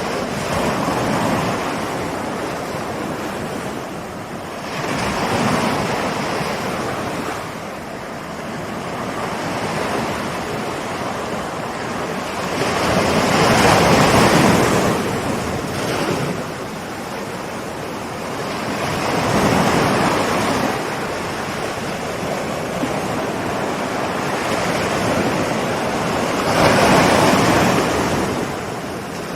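Ocean waves rolling in and breaking on a shore: a wash of surf that swells and fades every few seconds, with the biggest waves about halfway through and again near the end.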